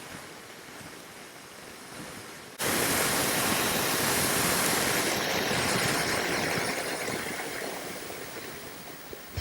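Wind rush and road noise on the microphone of a moving motorcycle, with no clear engine note. It is low at first, then about two and a half seconds in it jumps suddenly much louder and slowly eases off.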